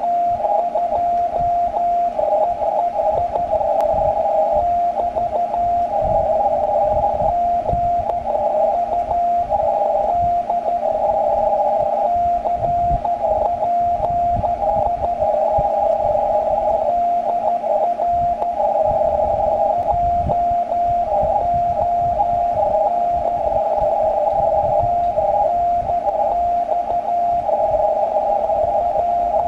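Morse code (CW) on the 40 m amateur band heard through a shortwave receiver: a single steady-pitched tone keyed on and off in dots and dashes, over a hiss of band noise and low static crackles.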